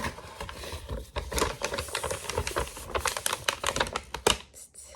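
Small paper bag rustling and crinkling as it is handled and packed, in quick irregular crackles.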